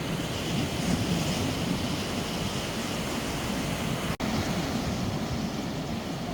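Steady low rumbling noise of a storm, with wind on the microphone and no distinct thunderclap. The sound cuts out for an instant about four seconds in.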